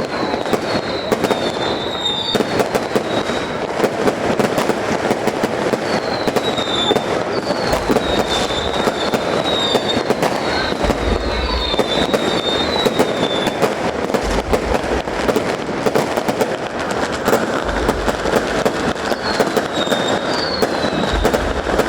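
A fireworks display: dense crackling, with many short whistles that fall slightly in pitch and deep booms every few seconds.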